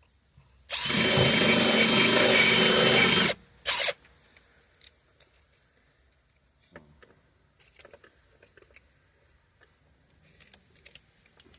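Power drill-driver running steadily for about two and a half seconds, then a brief second burst, as it works a trim screw. Faint clicks and handling noises follow.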